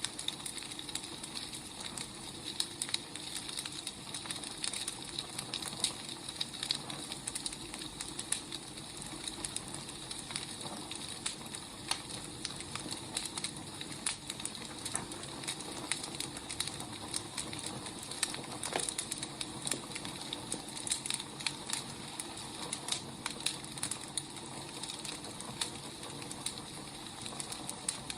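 Wood fire burning, with irregular crackles and small pops over a steady soft hiss.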